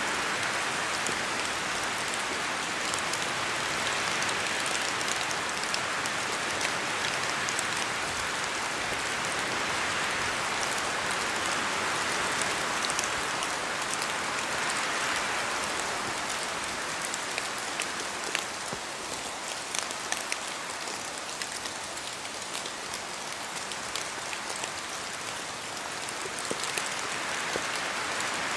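Steady rain falling through forest trees in the wind, with scattered drops ticking. The hiss swells and eases in slow waves and is a little softer in the second half.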